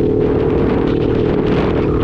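Motorcycle engine running at a steady pitch while riding, with rushing wind noise over the microphone.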